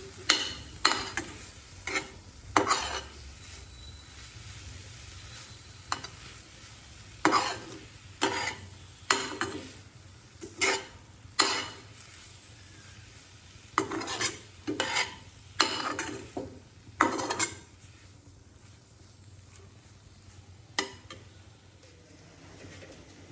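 A spatula or ladle stirring and scraping food in a cooking pan: short, sharp scraping strokes in clusters, with pauses between them.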